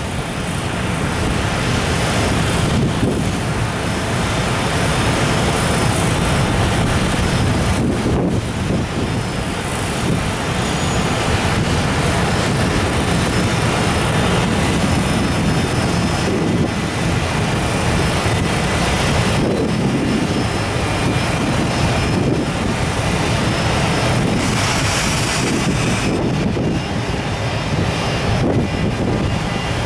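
Electric-hauled container freight train running steadily past, with wind on the microphone. The noise swells over the first couple of seconds, then holds level.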